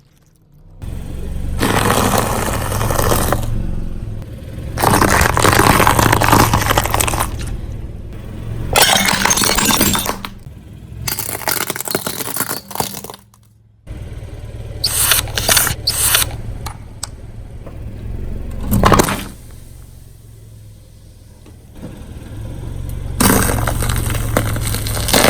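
A car tyre rolling over and crushing brittle objects: several bursts of crunching and cracking, over the low, steady running of the car's engine.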